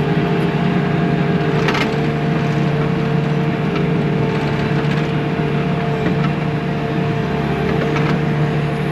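Bobcat T630 compact track loader's diesel engine running steadily at working revs, with a steady whine over the engine noise. A sharp knock comes about two seconds in.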